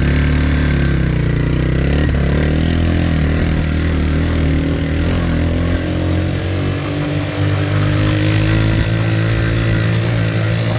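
A motor vehicle's engine running, its pitch drifting up and down as engine speed changes.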